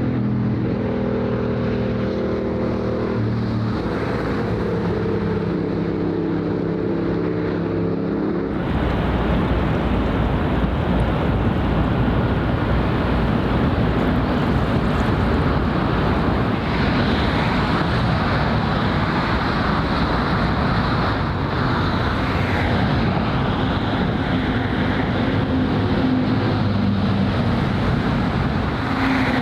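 A steady engine drone with several held tones, which changes abruptly after about eight seconds to a steady rushing noise of wind and water with motor traffic.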